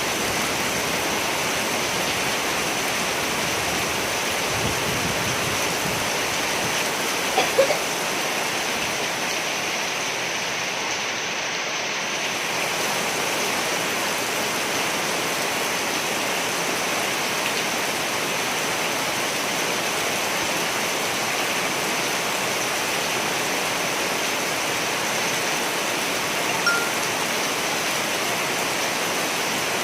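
Steady rain falling, an even hiss, with two brief sharper sounds standing out, about a quarter of the way in and near the end.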